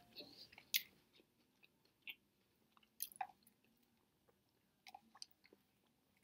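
Faint, scattered mouth sounds of a person chewing a sandwich and sipping soda through a straw: a few short, soft smacks and clicks with near silence between them.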